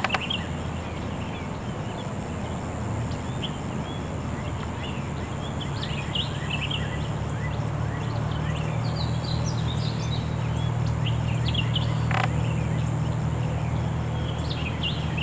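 Wild birds chirping and calling off and on, over a steady low hum that grows louder about three seconds in. A sharp click comes at the start and another about twelve seconds in.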